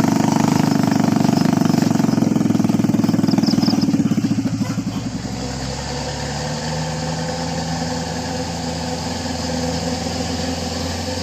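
A vehicle engine running hard. About four and a half seconds in, it eases off to a lower, steadier running.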